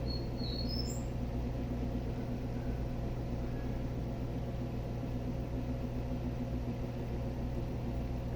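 Steady low electrical hum, with one short high chirp sliding upward about a second in.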